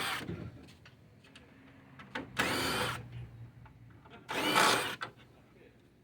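A power drill driving out parking-light screws, its motor run in three short bursts about two seconds apart, with small clicks of the screws and tool in between.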